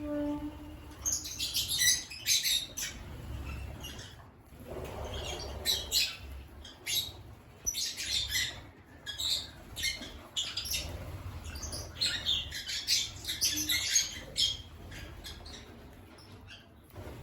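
African lovebirds chirping: clusters of short, shrill chirps that come again and again, with a soft rustle in the middle.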